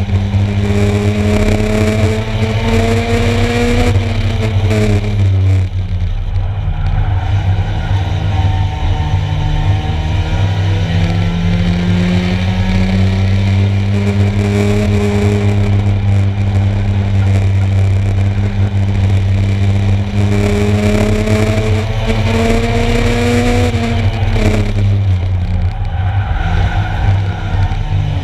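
Engines of 1-litre stock cars racing, their pitch climbing as they accelerate and falling sharply about five seconds in and again near the end, over a steady low drone.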